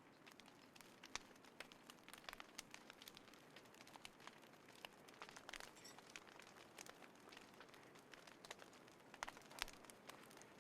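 Small wood fire in a folding fire stand crackling, with irregular sharp snaps and pops over a faint steady hiss; a small cluster of louder pops comes near the end.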